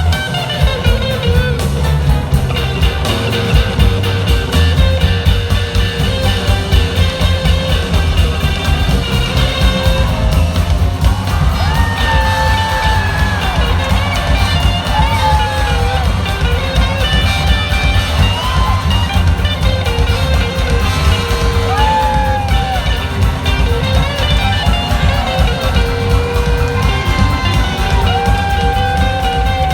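A live rock-blues band playing an instrumental passage: an electric lead guitar plays sustained notes that bend and glide in pitch over steady drums and bass.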